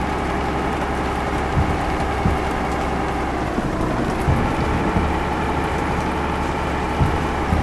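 Truck engine running steadily, heard from inside the cab, with a constant low hum and a pitch that dips and rises slightly; a few short knocks and rattles come through.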